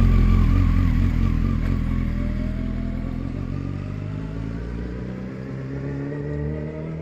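Motorcycle engine accelerating, its pitch rising steadily as the sound fades away.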